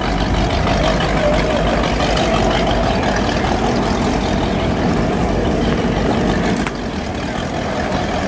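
An engine running steadily nearby, a low rumble with a steady hum, dipping briefly near the end.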